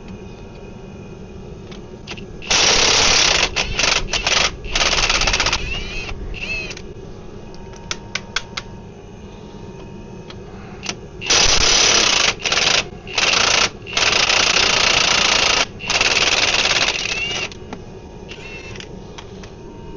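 Impact wrench hammering in short bursts of about a second each, in two runs separated by a pause, driving a 19 mm socket on the van's suspension bolts.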